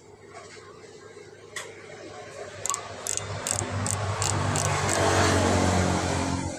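An engine running and growing louder, with a run of sharp clicks partway through, then cutting off suddenly near the end.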